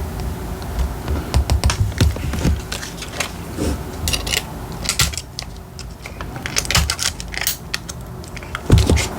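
Paper and stationery being handled on a desk during diary decorating: a run of crisp rustles, taps and clicks, with a low thump near the end.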